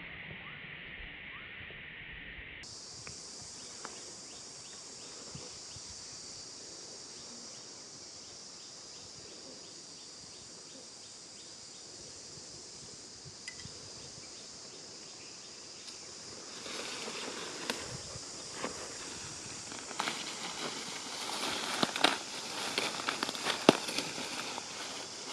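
Outdoor ambience: a steady high-pitched hiss. From about two-thirds of the way in come rustling and scattered sharp clicks and taps, the loudest near the end.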